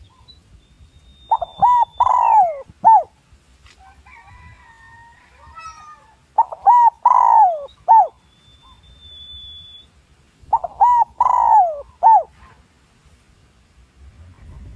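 Spotted dove cooing, the decoy call used to draw male spotted doves in to fight. Three phrases come about four seconds apart, each two short coos, a long falling coo and a final short coo. Faint thin whistles and chirps of other birds sound between the phrases.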